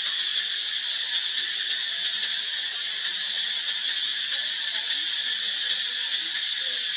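A steady high-pitched hiss at an even level, with faint short squeaks scattered underneath.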